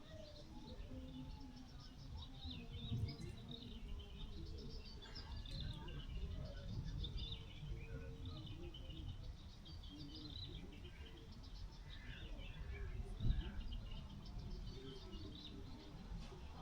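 Small birds chirping, many short scattered calls, over a steady low rumble, with two brief thumps, the louder one about two-thirds of the way in.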